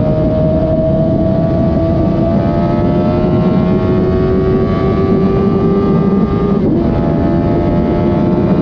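Suzuki GSX-R1000 K7's inline-four engine through its stock factory exhaust, accelerating under way with the pitch climbing steadily. About two thirds of the way in, the pitch briefly drops at an upshift, then climbs again in the next gear.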